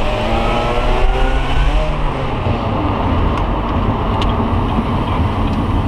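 Car engine accelerating, its pitch rising in the first second or so, then settling into a steady low drone with road noise.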